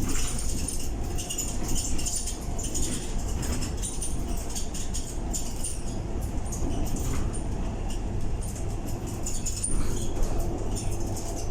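Interior ride noise of a Scania K230UB bus on the move: steady engine and road rumble with a faint drivetrain hum, and constant rattling and squeaking of the body and fittings.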